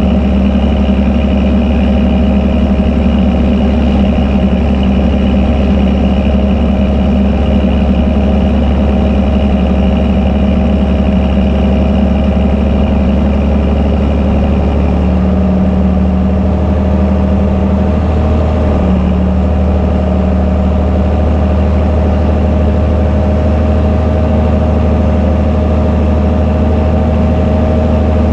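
Fendt Favorit 926 Vario tractor's six-cylinder MAN diesel running with an open exhaust, working steadily under load; the engine note shifts slightly about halfway through.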